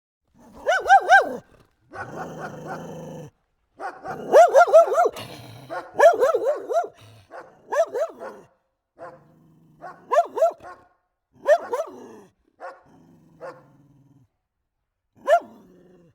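Dog barking in quick runs of high-pitched yaps, repeated a dozen or so times, with rougher low noise between some of the runs.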